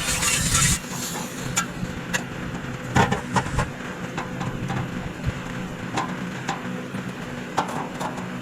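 Scattered sharp knocks and taps, about ten of them, the loudest about three seconds in, over a steady low machine hum, with a short hiss in the first second.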